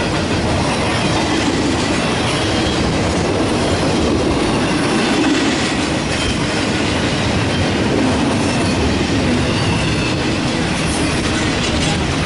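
Double-stack intermodal well cars rolling past at speed on a downgrade: the steady, loud rolling noise and rattle of steel wheels on rail.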